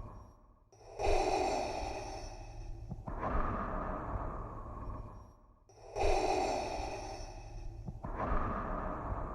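Darth Vader's mechanical respirator breathing sound effect: slow hissing breaths in and out through a mask, each about two seconds long with a short pause between, about two full in-out cycles.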